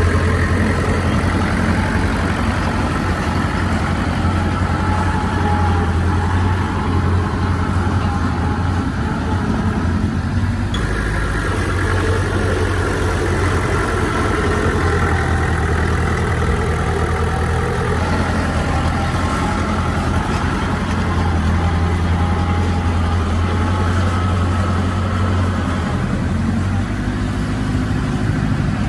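Heavy diesel engine of earthmoving machinery running steadily: a loud, continuous low drone that shifts slightly in pitch a couple of times.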